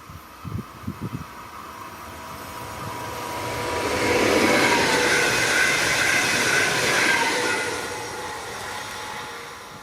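An electric regional multiple-unit train passes by. It grows louder, is loudest for a few seconds in the middle, then fades, with a rushing rail noise and a whine from the drive that drops slightly in pitch as it goes by.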